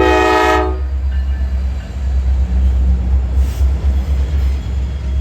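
A diesel locomotive horn sounds one short chord blast that cuts off within the first second. Under it, a passing freight train rumbles on steadily.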